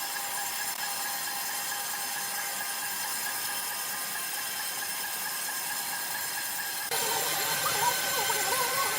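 Sawmill machinery running with a steady hiss and a constant whine. About seven seconds in the sound changes abruptly, turning louder, with a wavering tone over the hiss.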